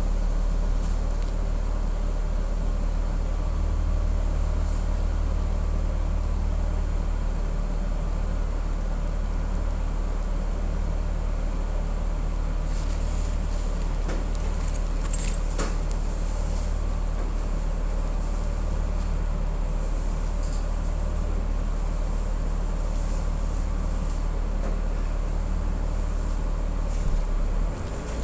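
City transit bus heard from inside the passenger cabin, its engine and drivetrain giving a steady low rumble under road noise. There are a few light rattles partway through, and the sound shifts near the end with a rising tone.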